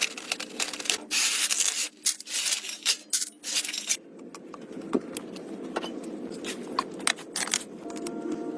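Rough scraping and rubbing in uneven strokes for about four seconds, then quieter with a few light clicks and knocks.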